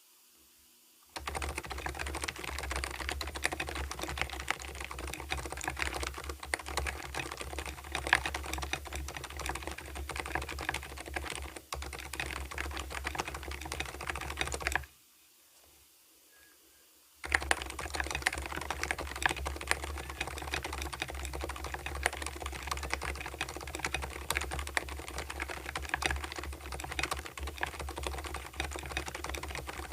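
Continuous typing on an Mstone Purpler keyboard with fully lubed, damperless low-noise Milky 38g switches, an aluminium plate and MA-profile PBT keycaps. The typing starts about a second in, stops for about two seconds halfway through, then resumes.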